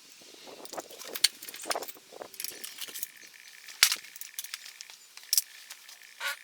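Metal tools and parts clinking and rattling, with a few sharp clinks, as they are handled while stripping down a Honda Super Cub.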